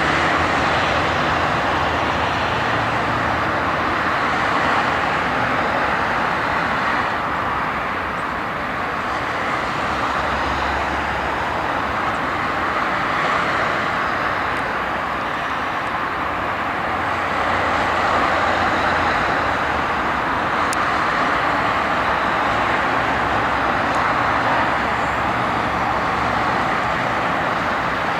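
Steady, loud jet noise from the Airbus A340-600's four Rolls-Royce Trent 500 engines at takeoff power, swelling and easing slightly.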